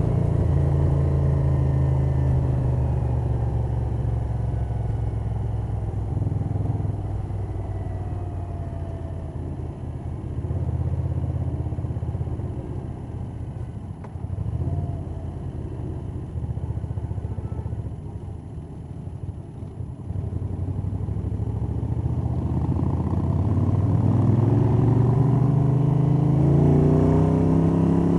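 1982 Moto Guzzi 850 Le Mans III's V-twin, fitted with Lafranconi Riservato Competizioni exhausts and K&N cone filters, running on the road with wind noise and the valvetrain audible, picked up by a cloth-wrapped microphone in a jacket pocket. The engine eases off through the middle, then revs rise and it gets louder as the bike accelerates near the end.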